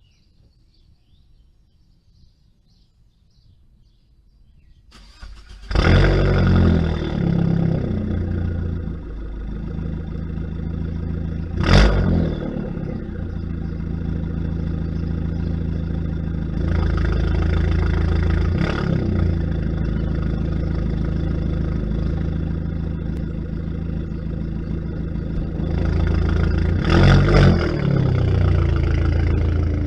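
Fiat Bravo T-Jet's 1.4-litre turbo petrol four-cylinder starting about five seconds in, heard at the exhaust, then idling steadily. It gives short blips of revs three times, near twelve, nineteen and twenty-seven seconds in.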